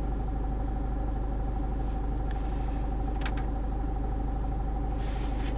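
Land Rover Freelander 2's 2.2 TD4 turbo diesel idling, heard from inside the cabin as a steady low rumble with a faint steady hum over it. Two faint clicks come about two and three seconds in.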